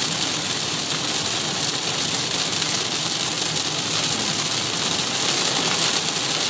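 Heavy rain on a moving car, heard from inside the cabin: a steady hiss of rain on the roof and windshield mixed with tyres running on the flooded road.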